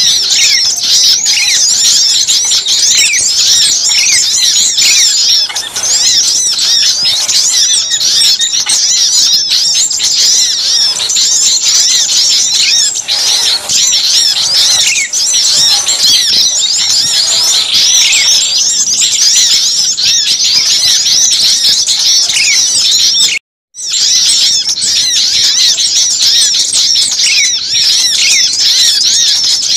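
A dense, noisy chorus of many small songbirds, all calling at once with rapid, high-pitched chirps and squeaks. It is a bird-luring recording of agitated small birds, used to draw wild birds in. The sound cuts out for a split second about three-quarters of the way through.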